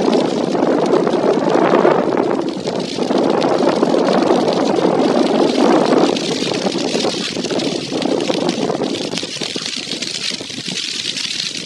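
Loud, steady rushing noise of storm water and heavy typhoon rain, with wind on the microphone. The deeper rush eases after about six seconds and a higher hiss takes over.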